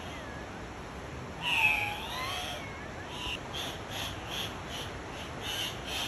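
Andean cock-of-the-rock giving one loud call that dips and rises in pitch, about a second and a half in. A steady series of short high notes follows, about three a second.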